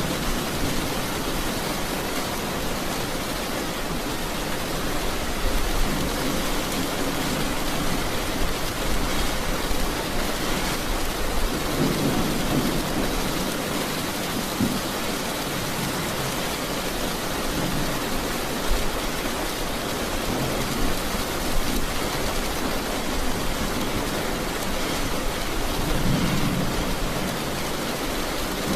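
Steady rain falling, with low rumbles that swell every several seconds.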